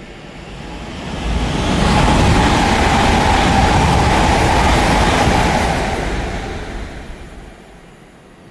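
A train passing through at speed: a rush of wheel and running noise that builds over about two seconds, stays loud with a steady high tone through it, then fades away.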